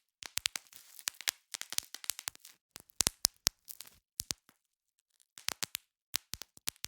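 Bubble wrap being popped: sharp pops in quick irregular clusters, with a pause of about a second a little past the middle.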